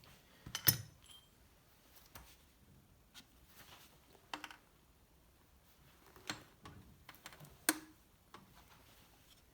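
Scattered light metallic clicks and taps of tools and engine parts being handled during piston installation, with two sharper clinks, one about a second in and one late.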